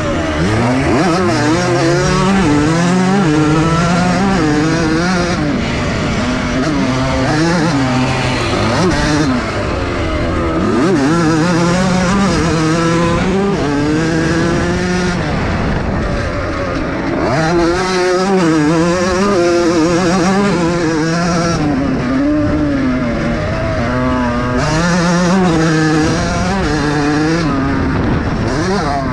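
Vintage motocross bikes racing on a dirt track. The engines rev up and drop back over and over as the riders work the throttle and shift through the corners, with more than one engine heard at once.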